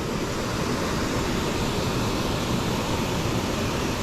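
Steady rushing of water pouring over a river spillway, an even, unbroken noise.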